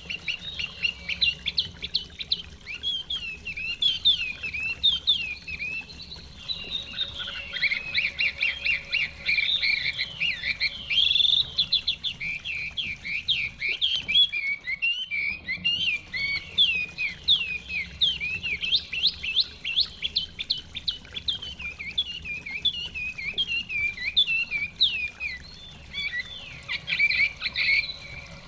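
Chinese hwamei singing continuously, a dense run of rapid, varied whistled phrases with quick up-and-down slurs.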